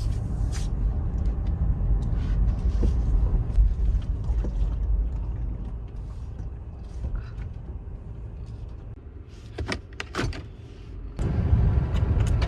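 Toyota 4Runner driving, a steady low rumble of engine and road that eases off about halfway through. There are a few sharp clicks near the end, and then the rumble comes back louder.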